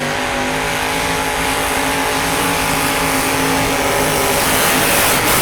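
Mega truck engine running hard at steady high revs, its pitch holding level and then starting to waver near the end.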